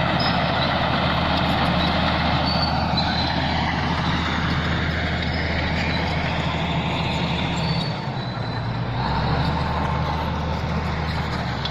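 Bulldozer's diesel engine running steadily under work, with high squeals sliding in pitch over it. The engine note dips briefly about two-thirds of the way through.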